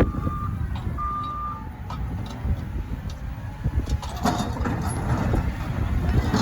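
Front-end loader's diesel engine running with a heavy low rumble, its reversing alarm beeping twice near the start before it stops. From about four seconds in come several sharp knocks and a rougher scraping noise.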